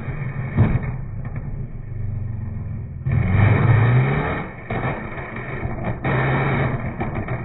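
Supercar engines running and revving, with a rising rev about three seconds in that is the loudest part; the sound changes abruptly at about three and six seconds in.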